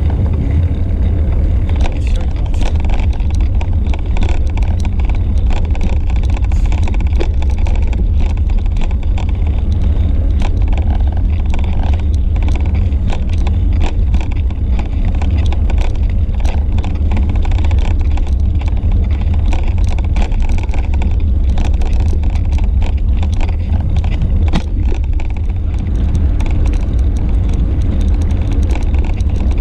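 Wind buffeting a bike-mounted action camera's microphone while riding, a loud steady low rumble, with frequent small clicks and rattles throughout.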